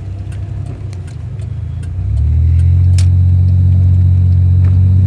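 Car engine and road drone heard from inside the cabin, a steady low rumble that steps up louder about two seconds in, with a few light clicks and one sharper tick about three seconds in.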